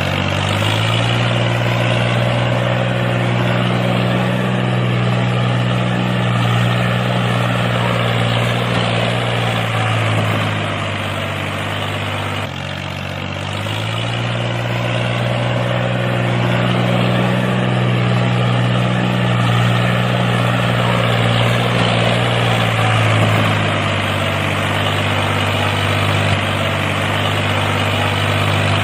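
A motor running steadily with a low hum that slowly drifts up and down in pitch. It dips briefly about halfway through, then picks up again.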